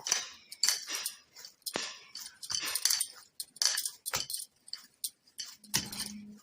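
Maida dough being kneaded by hand on a board: an irregular run of soft presses, squishes and slaps, with light clinks mixed in.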